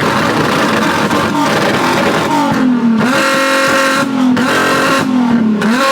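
Car engine being revved hard at a car meet, the pitch falling away after each blip as the revs drop, four times in the second half.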